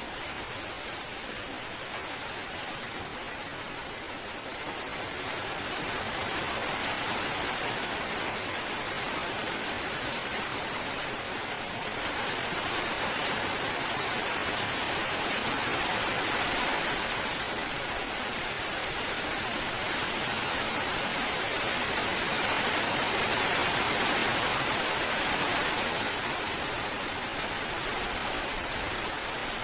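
Steady rain falling, a continuous even hiss with no separate drops or thunder standing out. It grows a little louder a few seconds in and swells again toward the end.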